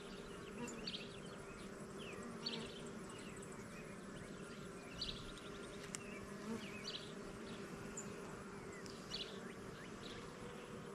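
Honey bee colony buzzing with a steady hum from an open hive during a frame inspection, the bees more active than usual. Short high chirps come and go over the hum.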